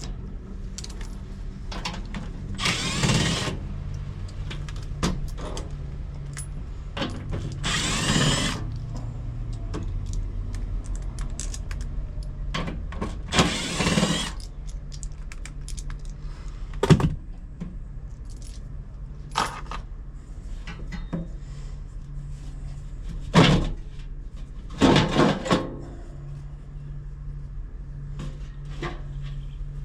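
Hand tools and metal parts clattering and rattling during work on a blower motor, with a handful of louder, second-long bursts of clatter spread through, over a steady low hum.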